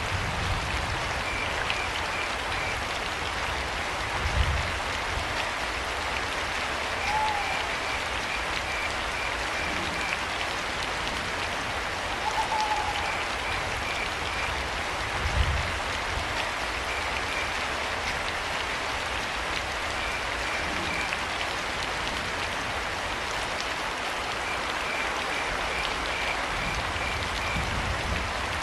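Steady rain pattering, with crickets chirping in short pulsed trills every few seconds. An owl gives two short hoots, and there are two low thumps.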